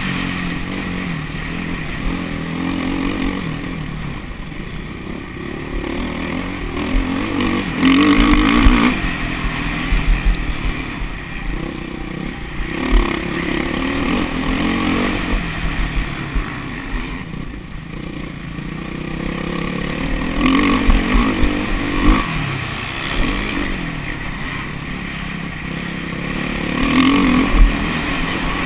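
Off-road motorcycle engines running on a motocross track, the revs rising and falling, with several louder full-throttle surges spread through the stretch.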